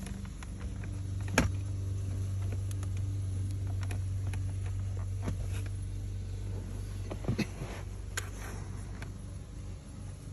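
Scattered light clicks and knocks of the plastic and metal shifter linkage being handled and worked back into place over its new bushing, a few seconds apart, over a steady low hum.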